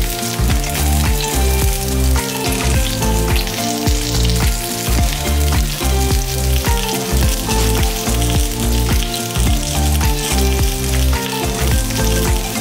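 Potato-starch-coated tofu cubes sizzling steadily as they shallow-fry in oil in a pan. Background music with a repeating bass line plays under the sizzle.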